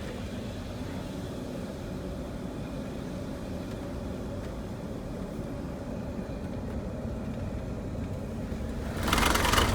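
Motorhome engine and road noise heard from inside the cab while driving: a steady low rumble. About nine seconds in, a louder rushing hiss starts.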